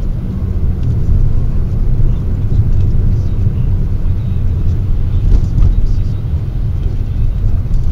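Steady low rumble of a car's engine and road noise inside the cabin, picked up by a dashcam's built-in microphone, with faint scattered ticks and one brief louder click about five seconds in.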